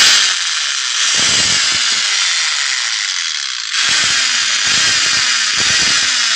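CM5 125 mm cutter machine running with a loud whine and irregular grinding clatter from its gearhead, the sign of a broken gear. The noise steps up about four seconds in.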